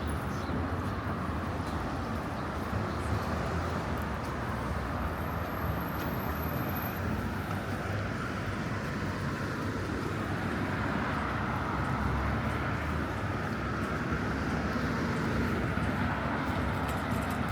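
Steady city street ambience dominated by a low traffic rumble, with no distinct single events.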